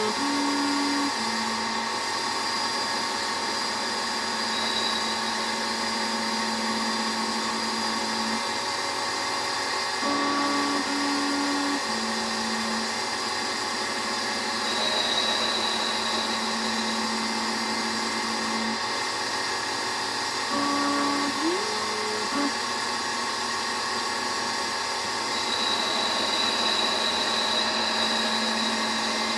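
EMCO Compact 5 CNC lathe running its program, turning a shaft's outside diameter: a steady machine whine whose tones jump in pitch in steps every few seconds as the stepper-driven axes feed and change direction.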